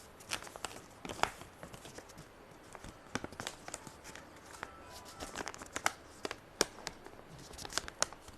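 A sheet of paper being folded by hand: irregular crinkles and soft clicks as the folds are pushed and creased.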